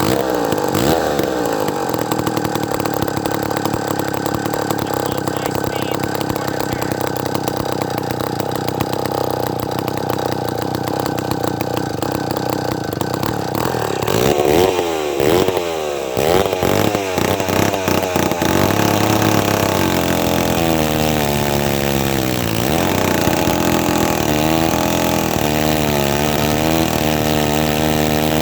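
David Bradley 5G-21 gear-drive two-stroke chainsaw running just after starting. It holds a steady speed at first, is revved up and down a few times about halfway through, and then its pitch keeps rising and falling.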